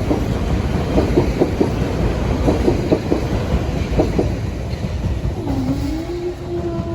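A train passing over the crossing, with a heavy rumble and wheels clicking over rail joints at an uneven rhythm, the clicks stopping about four seconds in. Near the end a steady whine comes in, dipping slightly in pitch before holding.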